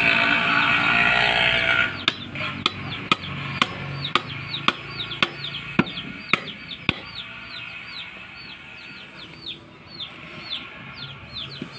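Sharp knocks about twice a second, like a hammer striking wood, thinning out after about seven seconds, over chicks peeping again and again. A loud rushing noise fills the first two seconds.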